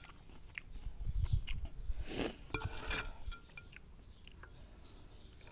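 Close-up mouth sounds of a person eating noodle soup: chewing with small wet clicks, and a short noisy burst about two seconds in.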